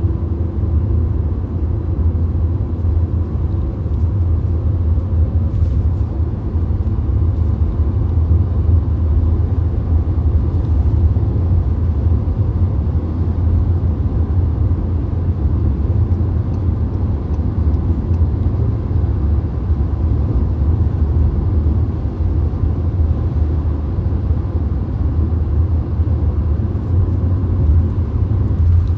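Road noise heard inside a VW Golf's cabin at motorway speed: a steady, low-pitched drone of tyres, engine and wind that stays even throughout.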